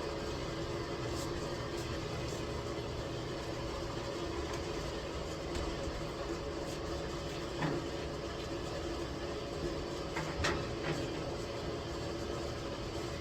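A steady mechanical hum, with a few short knocks in the second half.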